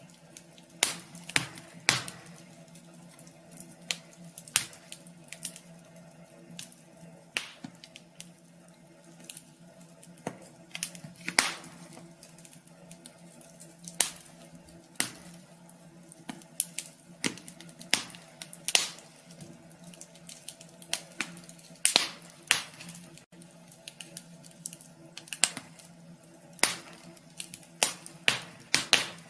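Wood fire crackling in a wood stove: irregular sharp pops and snaps, some louder than others, over a faint steady low hum.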